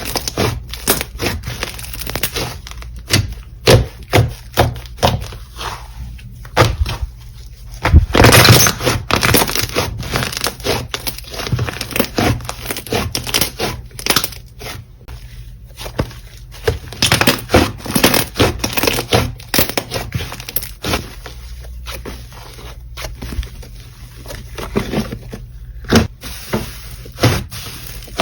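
Slime being squished, poked and stretched by hand, giving a long run of sharp crackling clicks and pops, with a denser, louder stretch about eight seconds in.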